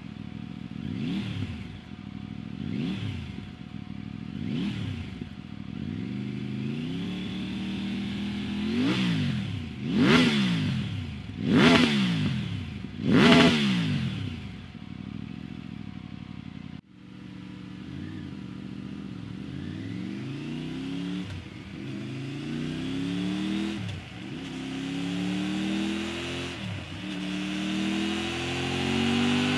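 Triumph Tiger 900's three-cylinder engine through an SC-Project titanium slip-on exhaust. It is first revved in blips, three short ones and then four sharper, higher ones. After a cut it accelerates through the gears, pitch climbing with a short dip at each shift.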